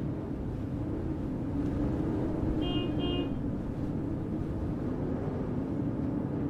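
Snowstorm city-street ambience: a steady low rumble of wind and traffic. Just before the middle come two short, high beeps, one right after the other.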